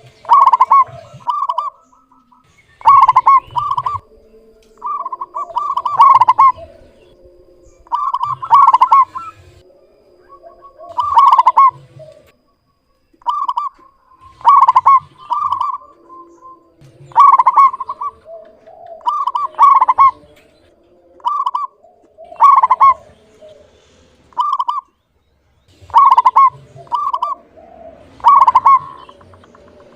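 Zebra dove (perkutut) cooing its song: short phrases of rapid clipped notes, clear and loud, repeated every two to three seconds.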